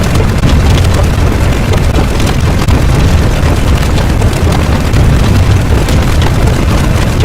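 Loud, steady rumble heavy in the bass, an explosion-like sound effect that runs on without a break.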